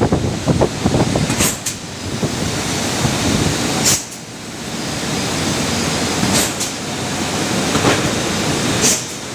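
Hongsing clipper machine running with a continuous mechanical clatter, a brief sharp stroke recurring about every two and a half seconds as it cycles.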